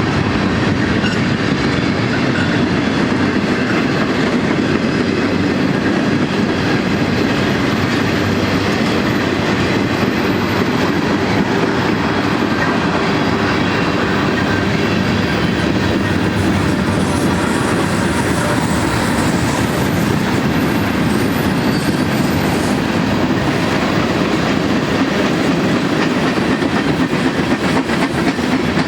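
Freight cars of a mixed-freight train rolling past steadily, with the wheels clacking over the rail joints.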